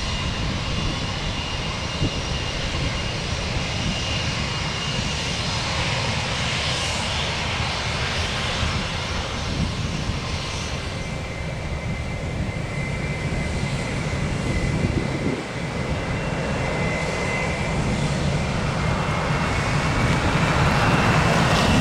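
Jet airliner's engines at takeoff thrust, a steady roar with a thin high whine; near the end the whine climbs in pitch and the sound grows louder.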